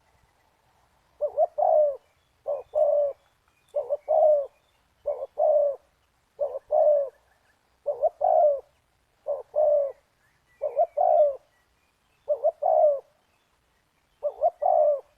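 Spotted dove cooing: a repeated short phrase of two quick notes and a longer coo, given about ten times at an even pace of one every second and a half or so.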